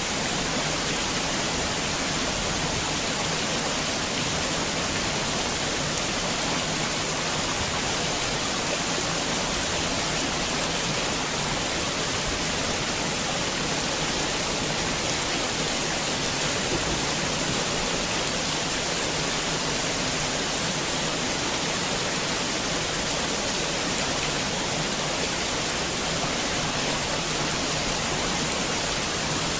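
Heavy rain falling steadily: a dense, even hiss of rain with no thunder and no single drops standing out.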